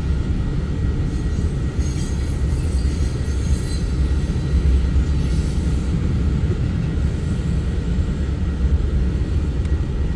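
A train rolling past on the tracks: a steady, loud low rumble of rail cars, with faint high wheel squeals in places.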